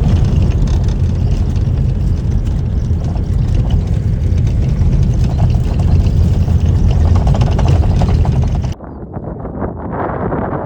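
Steady low rumble of a moving vehicle: engine and road noise. It cuts off abruptly near the end and gives way to a quieter, gusty noise.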